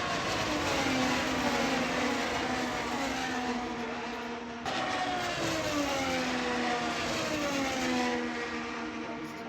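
Racing engines passing at speed, their pitch sliding down as they go by. There are two passes, joined by an abrupt cut about halfway through.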